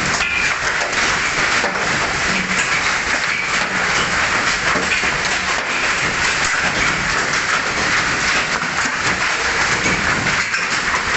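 Heavy rain with hail pelting down, a steady dense downpour studded with many small sharp impacts.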